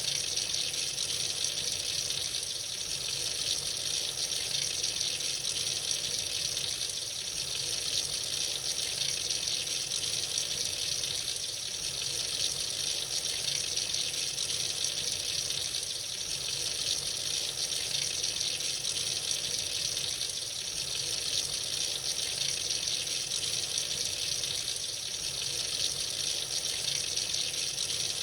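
Tap running freely into a sink, a steady hiss of flowing water that doesn't change.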